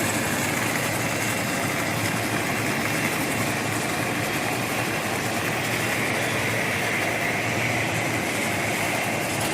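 Steady, unchanging machinery noise from a box beam welding line running in a factory: a constant hiss with a hum beneath it.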